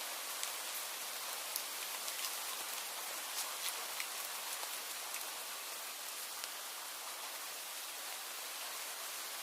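Steady rain falling, an even hiss with many separate drops pattering and ticking on a surface.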